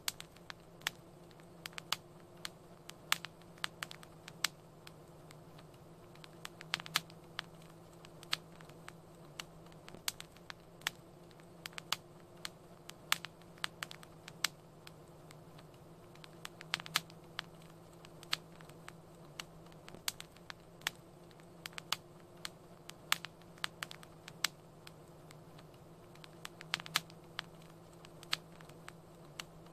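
Wood fire crackling: irregular sharp pops and snaps, several a second, over a steady low hum.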